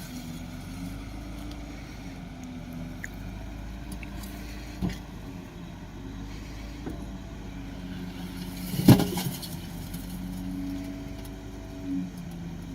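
Shantui DH17C2 bulldozer's diesel engine running steadily, its pitch shifting slightly, with a sharp knock about five seconds in and a louder one about nine seconds in.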